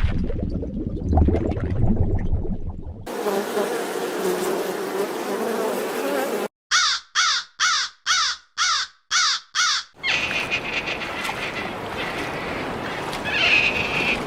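A run of separate animal sound recordings cut one after another. In the middle comes a series of seven short harsh calls, about two a second, with noisy stretches before and after.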